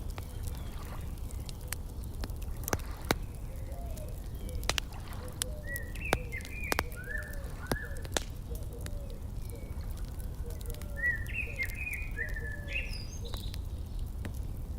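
Wood fire crackling with scattered sharp pops over a steady low rumble, while small birds chirp in two short runs, around six seconds in and again around eleven seconds in.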